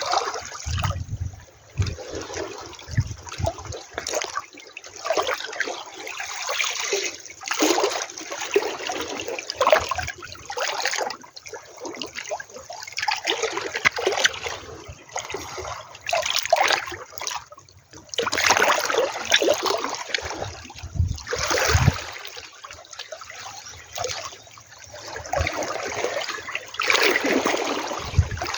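Small sea waves washing up the shore and draining back, in swells of rushing, trickling water every few seconds. There are low rumbling thumps near the start.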